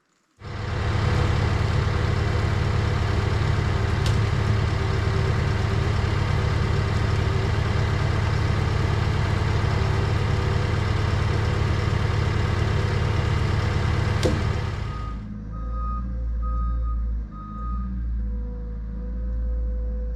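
Skid steer's engine running steadily at working revs. About fifteen seconds in it drops to a lower rumble, and a reversing alarm beeps a few times.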